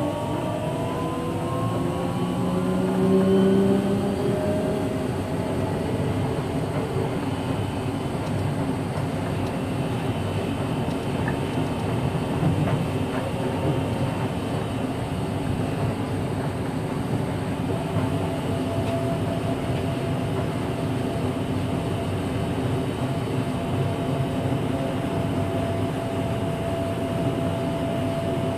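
Seaside Line 2000 series rubber-tyred automated guideway train with Toyo IGBT-VVVF inverter control, running: the inverter whine rises in pitch over the first few seconds as the train accelerates, then the car runs on at steady speed with rolling noise and a few held tones, one more tone joining about two-thirds of the way through.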